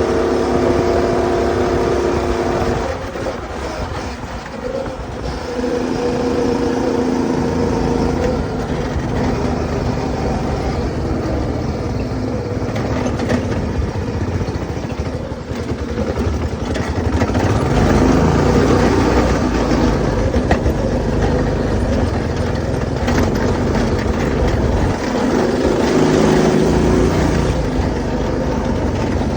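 Go-kart's small engine, fitted with a new 30 mm carburetor, running with its speed rising and falling.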